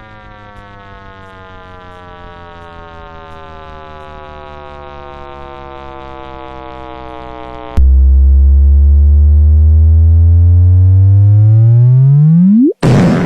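Synthesized black-hole sonification: a tone with many evenly spaced overtones slowly rises in pitch and grows louder. About eight seconds in it jumps to a much louder deep tone that sweeps upward faster and faster and then cuts off, followed by a brief burst of noise at the very end.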